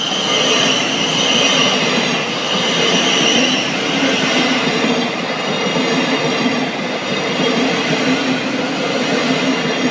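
Class 700 Thameslink electric multiple unit passing over a level crossing: a loud, steady rush of wheels on rail that lasts the whole pass.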